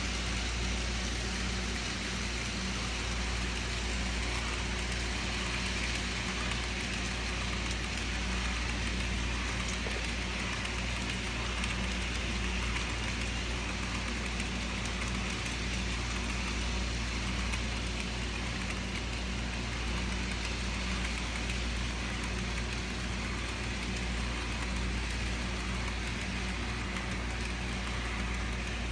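Model train locomotive running steadily on its track, a constant drone that holds the same level and does not change.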